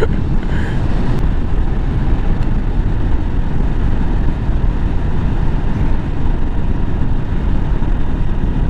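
Motorcycle underway at steady speed, heard from the rider's helmet: a constant low rumble of wind and engine with no changes.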